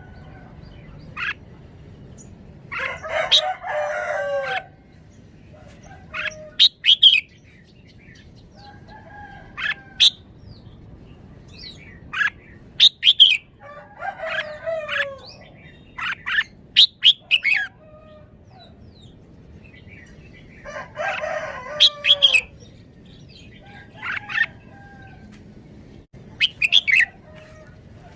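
Red-whiskered bulbul singing short, bright, whistled phrases again and again, with a rooster crowing twice: once about three seconds in and again about twenty seconds in.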